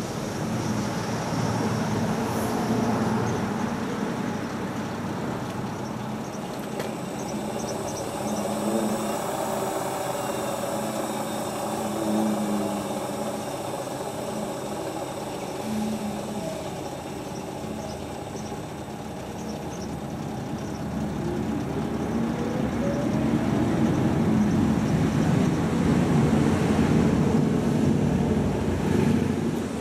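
Hotpoint Ultima WT960 washing machine running a test cycle on its new replacement drive belt: a steady mechanical hum and churn from the drum and motor. A whine rises in pitch about 21 seconds in, and the machine gets louder after that.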